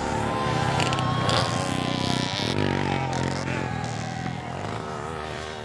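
Motocross dirt bike engines buzzing and revving as they race, several overlapping in pitch as it rises and falls, the sound fading away near the end.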